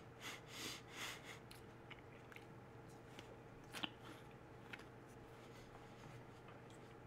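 Faint chewing of a mouthful of Granny Smith apple: a few soft crunches in the first second and a half, then quiet mouth clicks, one a little louder near four seconds.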